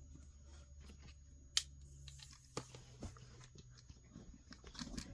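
Soft handling sounds of a long necklace being measured against a tape measure: scattered light clicks and taps, one sharper click about a second and a half in, over a faint steady low hum.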